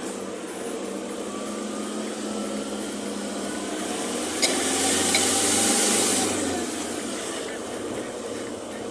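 Steady running noise of a moving vehicle, with a click about halfway followed by a louder rushing hiss for about two seconds.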